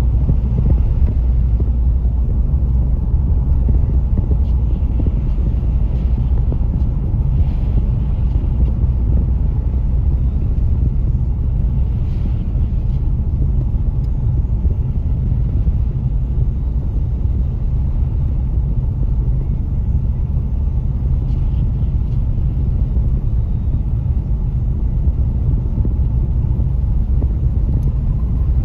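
Steady low rumble of a car's engine and tyres heard from inside the cabin while it drives on a snow-covered road.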